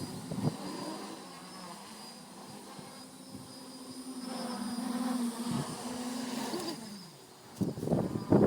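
Home-built quadcopter's brushless motors and small propellers buzzing at a steady pitch, growing louder through the middle and fading out shortly before the end. A person's voice breaks in near the end.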